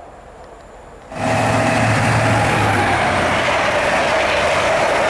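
A First Great Western InterCity 125 express passing through the station at speed: a loud, steady rush of wheels on rail and air, with a low hum and a held mid tone. It comes in abruptly about a second in, after faint outdoor quiet.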